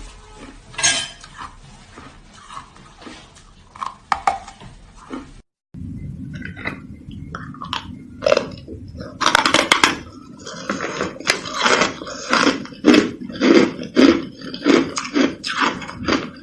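Hard shaved ice being bitten and chewed, sparse crunches at first, then a cut about five and a half seconds in, after which steady loud crunching comes at about two bites a second.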